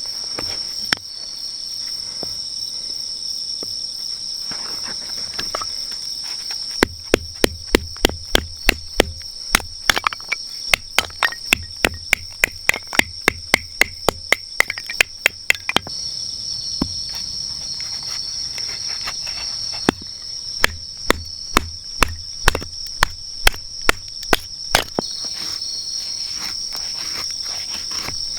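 Steady high chirring of crickets and other autumn insects. Over it come two runs of sharp repeated knocks, about three a second, the first lasting around nine seconds and the second around five.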